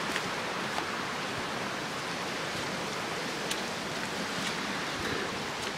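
Steady rushing of a waterfall and its stream, with a few faint clicks.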